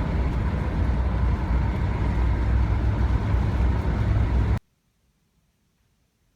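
Class B camper van on the move: a steady low engine and road rumble that cuts off suddenly about four and a half seconds in.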